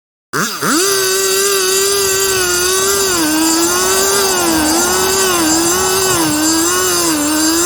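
Small gas engine of a hydraulic log splitter running fast after a quick rev-up, its pitch dipping and recovering every second or so as load comes and goes.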